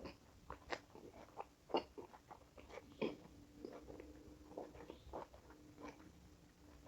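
A person chewing and crunching food, with faint, irregular crunches and mouth clicks.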